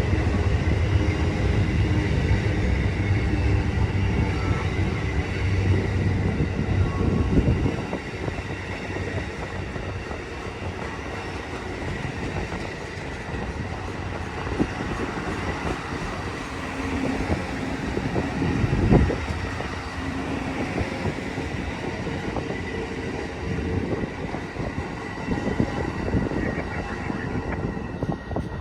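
A train passing on the rails: a heavy low rumble that drops off suddenly about eight seconds in, then a lighter steady rolling of wheels over the track with a faint, steady high ring.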